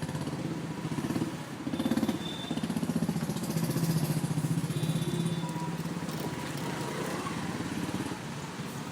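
City street traffic: motor vehicle engines running and passing, loudest around the middle, over a steady wash of road noise.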